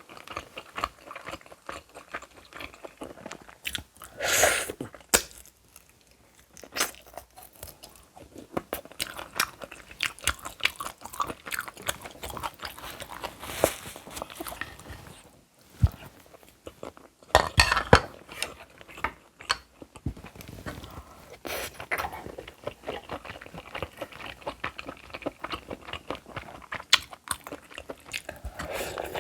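Close-miked chewing and crunching of food, with a steady run of small bites and louder spikes about four seconds in and again around seventeen to eighteen seconds.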